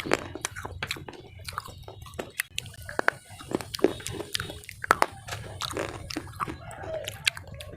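Hard slate pieces (cubes and bars) being bitten and chewed: a run of sharp, irregular cracks and crunches as the pieces break between the teeth.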